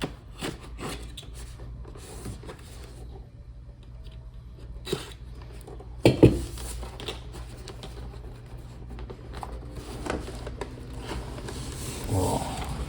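A taped-shut cardboard toy box being opened by hand: scattered clicks, scrapes and rustles of the packaging, with a couple of sharp knocks about six seconds in.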